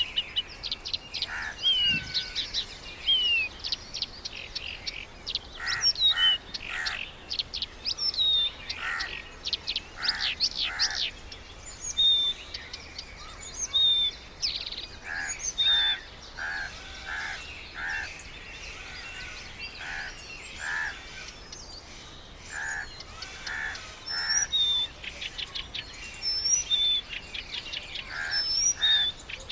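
Several birds calling and chirping throughout: quick high whistles and short gliding notes, with a series of repeated harsher call notes in the second half.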